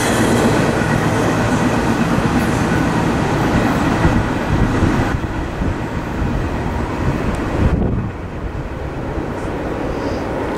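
Norfolk Southern train going away just after its last car has passed, a rumble and clatter of wheels on rail that fades in steps, its high end dying out about halfway through.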